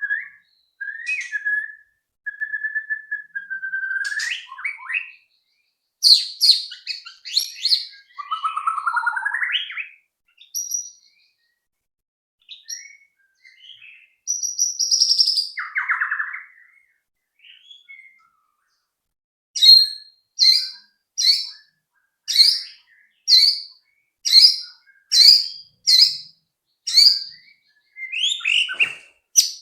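White-rumped shama song: varied clear whistles, slurred glides and chatter, then, about two-thirds of the way through, a steady run of about a dozen short, sharp repeated notes.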